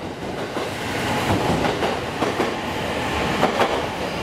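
Electric limited express train running past alongside a station platform, its wheels clacking over rail joints, several clacks in close pairs, over a steady rumble of running gear.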